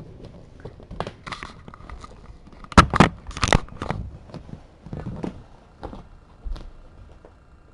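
Rustling and crinkling handling noise with scattered sharp crackles, loudest in a quick cluster about three seconds in.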